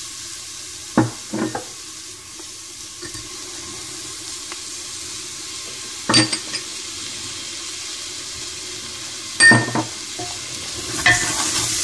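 Onions with ginger-garlic paste sizzling in ghee in an aluminium pressure cooker as a wooden spoon stirs them, knocking against the pot a few times. The sizzling gets louder near the end.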